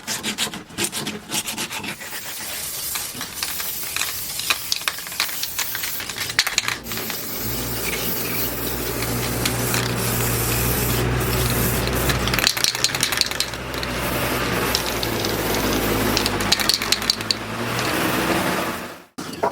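Hand work on wood: repeated rubbing and scraping strokes, as of sanding or filing a wooden handle. A low steady hum joins in about a third of the way through, drops out briefly, then returns, and everything cuts off just before the end.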